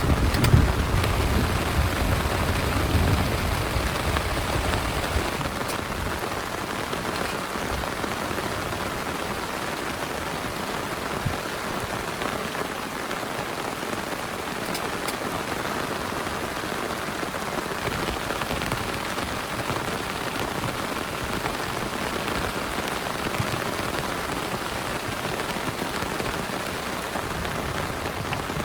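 Heavy rain pouring steadily in a thunderstorm. A low rumble of thunder is heard in the first few seconds and fades away.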